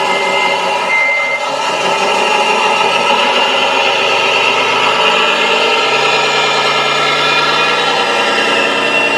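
Radio-controlled construction model running steadily, a mechanical hum with a high whine over it and a few short high beeps in the first second and a half.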